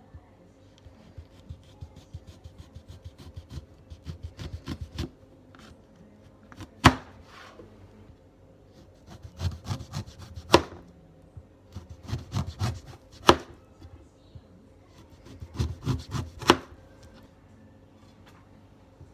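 Kitchen knife slicing a lemon thinly on a cutting board: runs of short quick cutting strokes, each ending in a sharper knock of the blade on the board, four times over.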